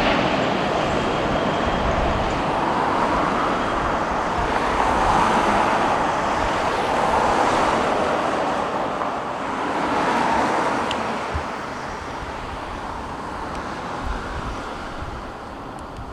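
Engine noise of a passing Boeing wide-body jet airliner, a steady rushing rumble that swells slightly twice, then fades away over the last few seconds as the aircraft moves off.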